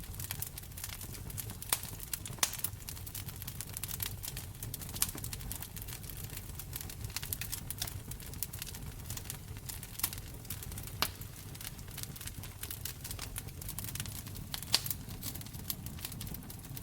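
Fireplace fire crackling: a dense run of small crackles, with several sharper, louder pops, over a low steady rumble.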